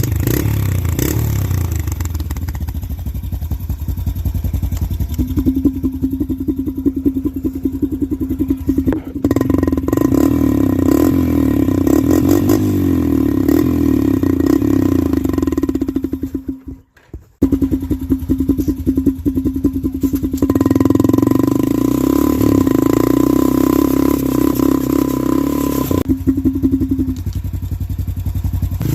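Honda TRX90EX quad's single-cylinder four-stroke engine running through a Monster Energy can fitted on the exhaust, revved up and held high twice, with a short drop-out just past halfway and easing back near the end.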